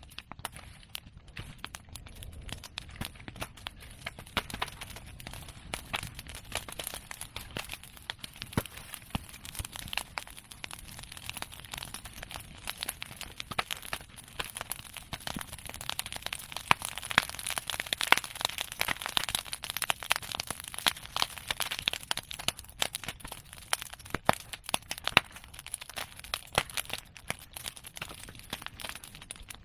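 Open bonfire of cut bamboo and chestnut prunings crackling densely, with many sharp pops and snaps over a steady hiss. The crackling builds toward the middle and stays fierce, with some louder single pops.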